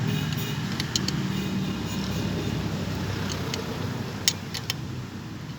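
Steady hum of motor vehicles, with a few sharp metallic clicks.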